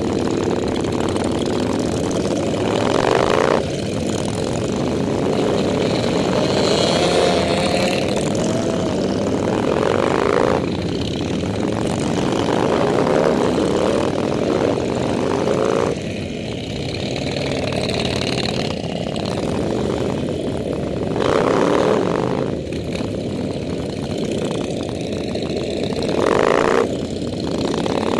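Motorcycle engines running steadily in a group ride, the engine note swelling and easing every few seconds.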